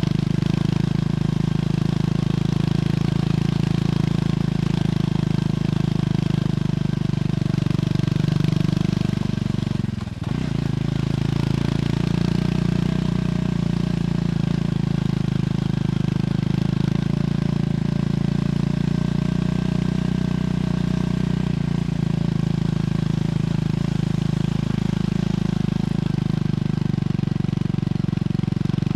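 Triumph Scrambler 400X single-cylinder engine running steadily through its stock exhaust. About ten seconds in its note briefly dips and then picks up again.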